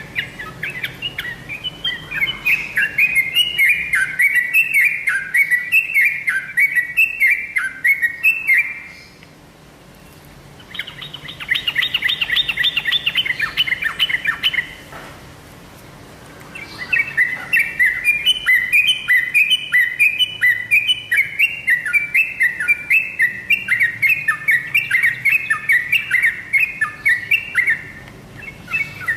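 Yellow-vented bulbul singing long runs of quick, bubbly, repeated falling notes, with a faster chattering phrase between two short pauses about ten and fifteen seconds in.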